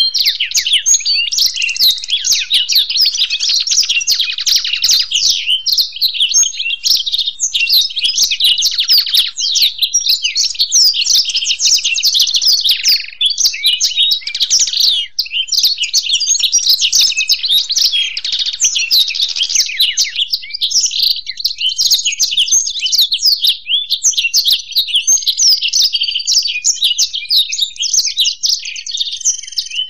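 Blackthroat (black-throated canary) and European goldfinch singing together: a continuous stream of rapid, high twittering trills and chirps.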